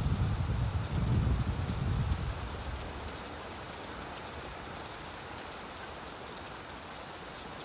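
Steady rainfall, with a low rumble underneath that fades out about two seconds in.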